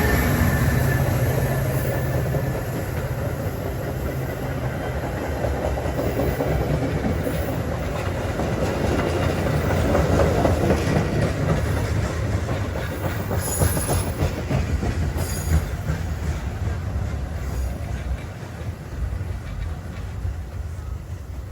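Metra Union Pacific West Line commuter train rolling through the station, its wheels clattering on the rails in a steady rumble that fades away over the last few seconds.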